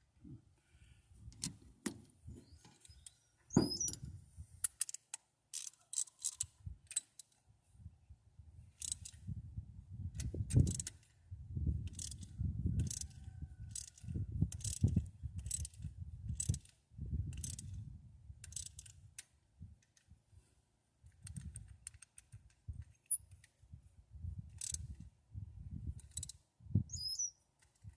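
Socket wrench, deep well socket and extension clinking and clanking against metal in a run of short, irregular taps and knocks, as the tools are handled while fitting the rocker arms on the engine.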